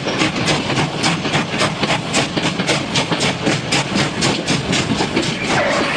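Train running with a steady rhythmic clickety-clack, about four to five beats a second.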